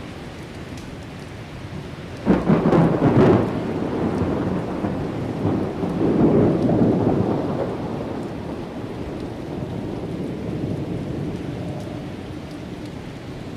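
Thunder: a sudden crackling clap about two seconds in, rolling on into a rumble that swells again a few seconds later and slowly fades, over a steady background hiss.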